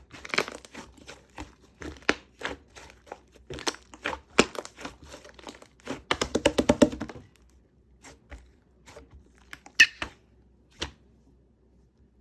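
Hands squishing and pulling black clay slime mixed with shaving foam, giving a quick run of sticky clicks and pops. There is a dense patch of crackling about six seconds in, then only a few scattered clicks.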